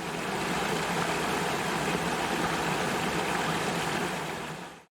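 Steady rush of running water, like a stream, fading out near the end.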